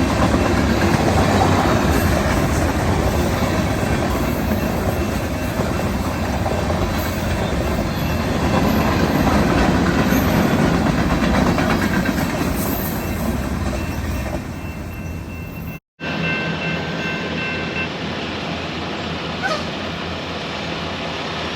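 BNSF freight train rolling past a grade crossing. The sound cuts out suddenly about 16 seconds in, and a quieter, steady rumble follows.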